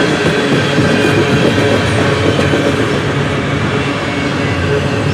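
Freight cars rolling over a steel girder bridge overhead, tank cars followed by double-stack container well cars. The wheels clack and rumble steadily on the rails, with a faint steady ringing tone above the noise.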